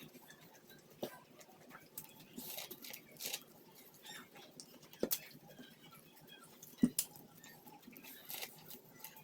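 Close-up eating of boiled Japanese sweet corn on the cob: faint scattered bites, crunches and mouth clicks as kernels are chewed off the cob. A sharper click about seven seconds in is the loudest.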